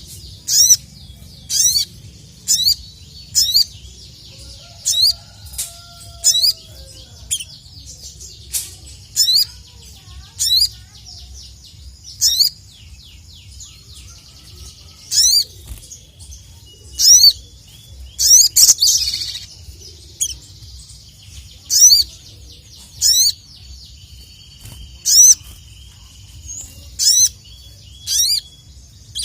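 A sogok ontong (sogon) singing: short, sharp, high sweeping notes about once a second, some in quick runs, over a steady low hum.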